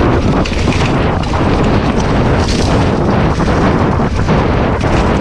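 Loud continuous rumble of wind buffeting the microphone, with scattered knocks.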